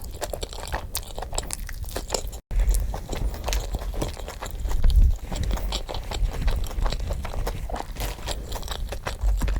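Close-miked eating: crunchy bites and wet chewing of fast food, with dense irregular crunches throughout and a brief cut-out about two and a half seconds in.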